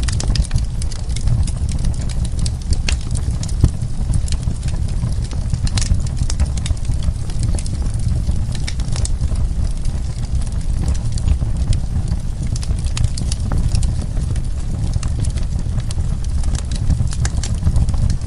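Wood fire burning in a fireplace: a steady low rumble of flames with many sharp crackles and pops of burning wood, a few of them louder.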